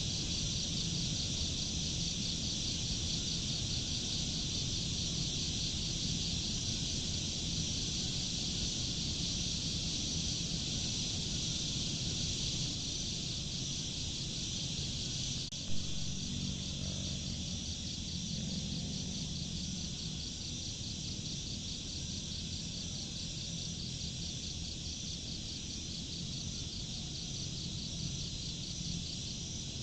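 Steady chorus of insects chirring with a fine, even pulse, over a low rumble. A single brief click sounds about halfway through.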